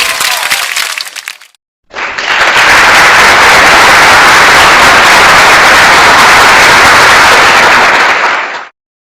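Applause sound effect: a large crowd clapping in a loud, even wash for about seven seconds, starting about two seconds in and cutting off near the end. Before it, the tail of a cheering-crowd effect fades out.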